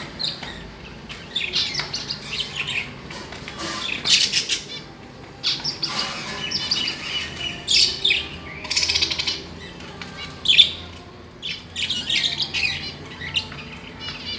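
Lovebirds chattering with rapid, shrill chirps and squawks in repeated bursts.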